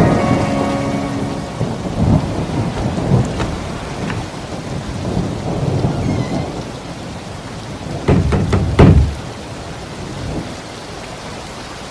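Thunderstorm: steady rain with rolling thunder, and a loud crack of thunder about eight seconds in.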